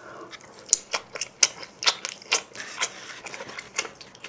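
Close-miked chewing of a mouthful of cheese pizza: irregular sharp mouth clicks, about two or three a second.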